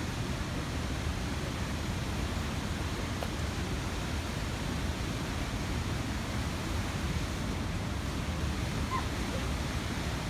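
Steady, even rushing noise, heaviest in the low end, with no clear tone or rhythm.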